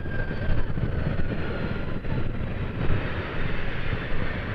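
Boeing C-17A Globemaster III's four Pratt & Whitney F117 turbofans running during its landing, a heavy rumble with a thin turbine whine slowly falling in pitch.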